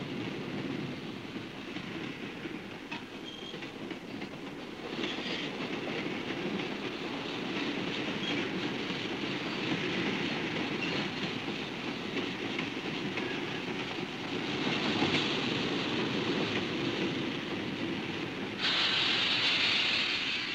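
Railroad cars rolling past, with the wheels clicking steadily over the rail joints. Near the end a louder hiss starts suddenly.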